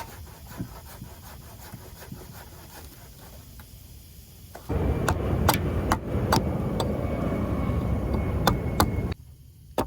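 Rustling of brush and leaf litter with sharp cracks of dry twigs and wood, growing suddenly much louder about halfway through and stopping abruptly near the end, as a length of dead wood is gathered for a shelter upright.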